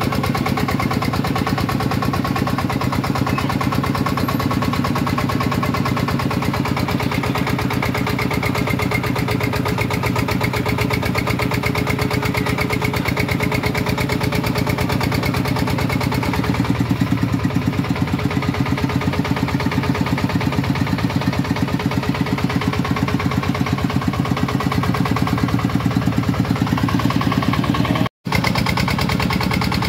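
Shifeng 40 tractor's diesel engine running steadily with a fast, even firing pulse, cut off for an instant near the end.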